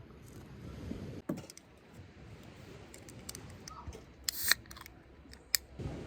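A few short, sharp clicks and snips, with one longer, louder crisp sound about four and a half seconds in.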